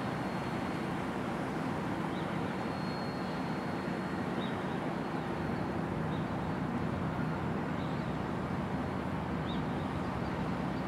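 Freight train cars rolling away over the rails with a steady rumble, and a faint thin high squeal about two to three seconds in.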